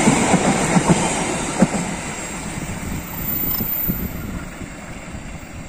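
Passenger train coaches rolling past, their wheels knocking and rumbling on the rails, the sound fading steadily as the tail of the train moves away.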